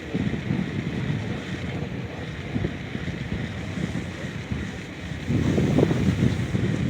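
Wind buffeting the microphone as an uneven low rumble over a steady rushing hiss, louder from about five seconds in.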